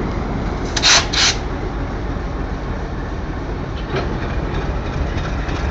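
Electric track maintenance train running along the rails with a steady rumble, broken by two short, sharp, loud bursts about a second in.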